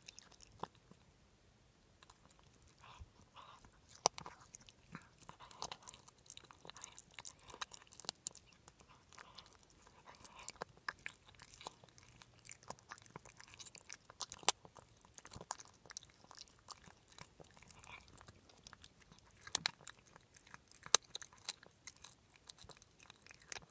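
A pet chewing crunchy food, with irregular crisp crunches and a few louder cracks.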